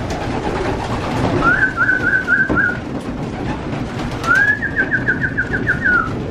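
Racing pigeons cooing and murmuring together in a loft, with two warbling whistled trills over the top, a short one and then a longer, faster one.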